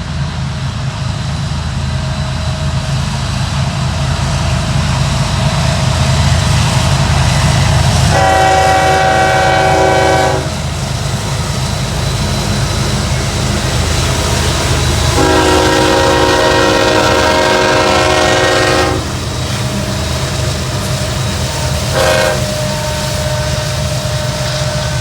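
Train locomotive running with a steady low engine rumble while sounding its multi-note air horn: two long blasts and then a short one, the start of the grade-crossing signal.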